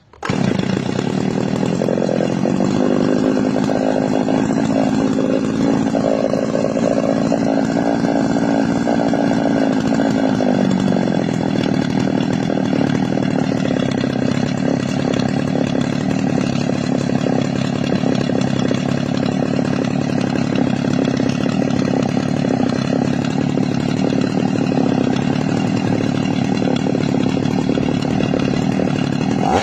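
C210 chainsaw's two-stroke engine held at high revs with a steady, screaming whine; the pitch dips slightly about ten seconds in.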